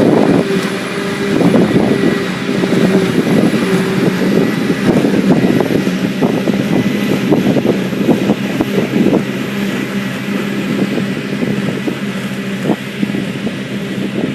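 Diesel engines of silage-harvesting farm machinery running steadily, with irregular crackles and thumps over the steady engine note.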